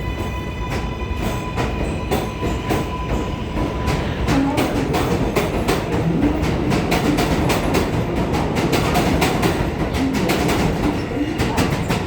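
New York City Subway 7 train running at speed: the motor whine, which has just climbed in pitch, holds one steady tone for the first few seconds and then fades out. Over the rumble, the wheels click and clatter over the rail joints, growing louder and more frequent about four seconds in.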